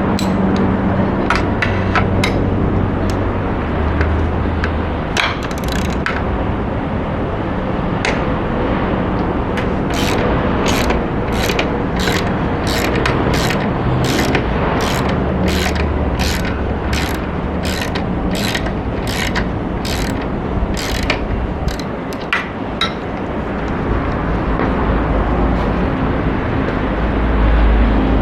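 Ratchet wrench working the bolts of a motorcycle muffler: scattered clicks at first, then a long run of about two clicks a second before it stops near the end.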